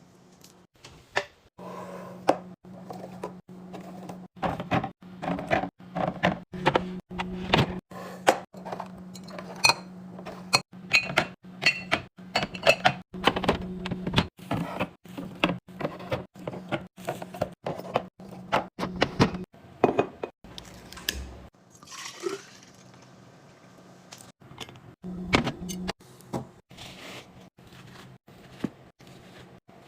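Containers being handled and set down during fridge restocking, with many irregular clicks, taps and clinks. About two-thirds of the way through, liquid is poured into a container, its pitch rising as it fills. A steady low hum runs under much of it and drops out partway.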